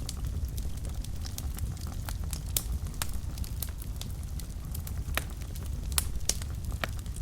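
Wood fire burning in a fireplace: a steady low rumble with frequent irregular crackles and pops, a few louder snaps about two and a half and six seconds in.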